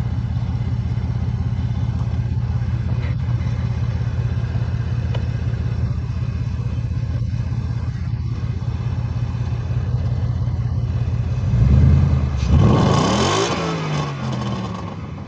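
Ford Mustang engine idling steadily, then revved a couple of times near the end, rising and falling in pitch before it settles back.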